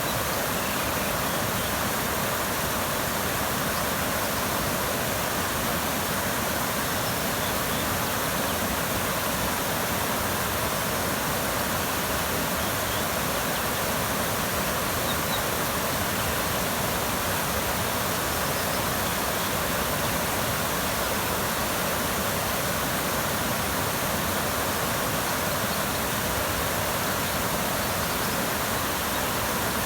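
Rushing creek water: a steady, even wash of cascading water, with a few faint, brief high bird chirps barely showing through it.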